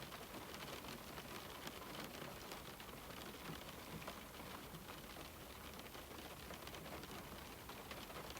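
Steady rain falling on a window, an even hiss scattered with the ticks of single drops striking.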